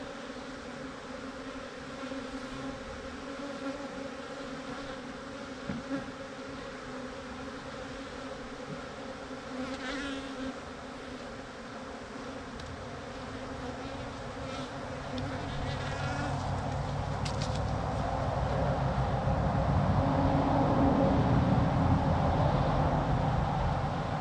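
Defensive honeybee colony buzzing around an opened hive, a steady hum that swells louder and deeper over the second half.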